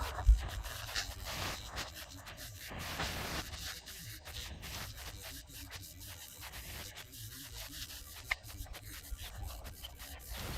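Straw-based render being rubbed and scraped across a wall with a plastering tool, in quiet, irregular strokes. A low thump comes just after the start.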